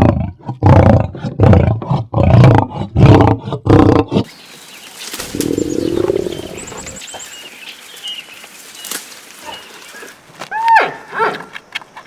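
An animal calling in a rapid series of loud, rhythmic pulses, about three a second, that stops about four seconds in. A quieter call follows, then a few short calls that rise and fall in pitch near the end.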